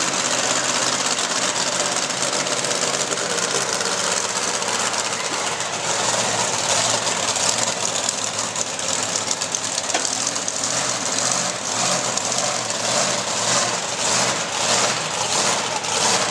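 Monster truck engine running loud and steady, its level swelling and dipping in a pulsing way through the second half.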